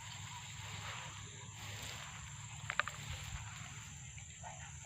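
Faint outdoor dusk ambience: a steady high-pitched insect drone over a low rumble. Near the middle comes a quick cluster of sharp bird chirps from the flock gathering in the trees.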